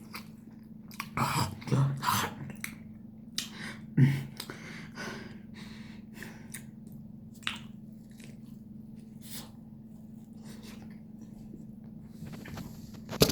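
A person chewing a mouthful of corn dog close to the microphone, with irregular wet mouth clicks and bursts of breath, busiest in the first five seconds and sparser after. A faint steady hum runs underneath.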